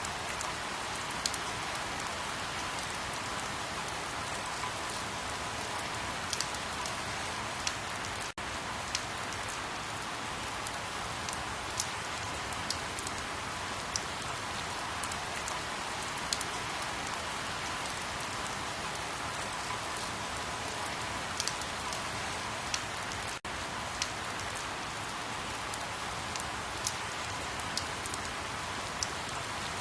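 Steady rain falling, an even hiss with individual drops ticking sharply here and there. It drops out for an instant twice, about 8 and 23 seconds in.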